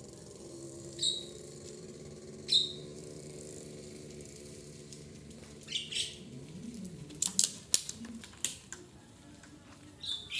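A bird chirping in short, sharp calls that sweep quickly downward, at about one, two and a half and six seconds in. A run of sharp clicks comes between about seven and eight and a half seconds, over a low steady hum.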